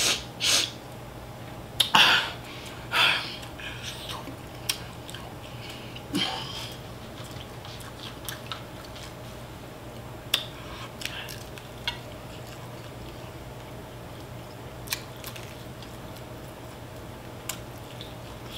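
A person biting into and chewing a sauced fried-chicken drumstick, with scattered wet mouth clicks. A few louder noisy bursts come in the first few seconds and again about six seconds in.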